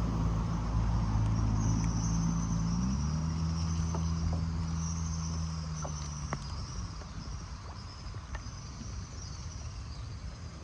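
A small boat's engine running steadily, stepping up slightly in pitch about three seconds in and stopping about seven seconds in. High insect chirping runs on throughout.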